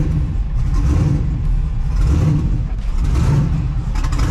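Twin-turbo LS V8 swapped into a Ford Mustang, idling with a heavy, uneven, pulsing note that sounds like it has a big cam in it, though it does not.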